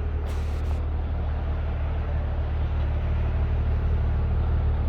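Steady noise of heavy rain falling, over a constant low hum.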